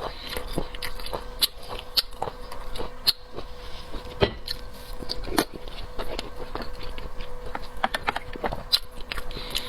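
Close-up eating of seafood: a person biting and chewing, with frequent sharp clicks and crunches spread irregularly throughout.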